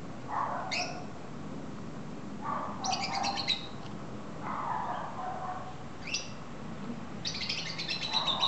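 Birds chirping: short high calls and quick rattling trills, the trills about three seconds in and near the end. A few short, lower noisy bursts come between them.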